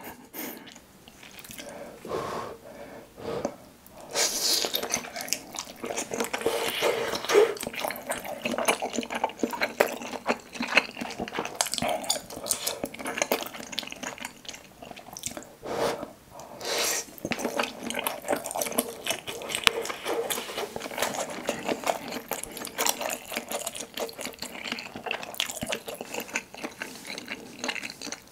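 Close-miked chewing of soft, broth-soaked fish cake (eomuk): continuous wet, squishy mouth sounds and small smacks, picking up about four seconds in.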